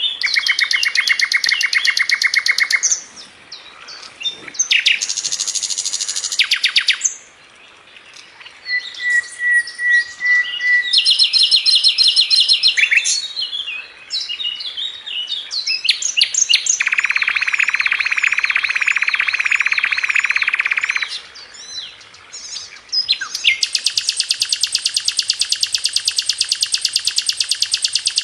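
A sikatan londo flycatcher singing loud, fast trills of rapidly repeated notes in bursts of two to four seconds, with short pauses between them and one brief steady whistle in a gap about nine seconds in.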